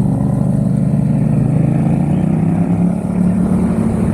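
Yamaha XSR700's 689 cc parallel-twin engine running through a Mivv aftermarket exhaust while riding, its pitch rising gently over the first two seconds, with a brief dip in level about three seconds in.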